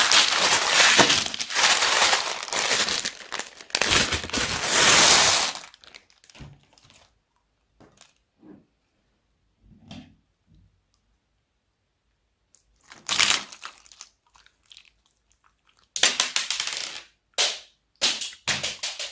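Slime being worked with plastic bags: dense crinkling and crackling for the first five seconds or so, then a near-quiet stretch with small clicks and squelches. A short crackling burst comes about 13 seconds in, and several sharp crackling bursts follow near the end.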